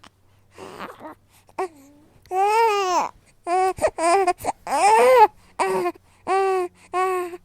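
Newborn baby vocalizing in a string of short, high-pitched calls, each under a second, their pitch rising and falling. They grow louder from about two seconds in.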